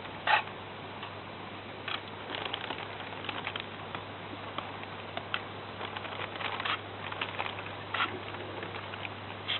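Aerosol air-conditioner cleaning spray being sprayed over the unit: irregular light ticks and pattering taps over a steady hiss, in small clusters about two and six and a half seconds in, with a single louder tick near the end.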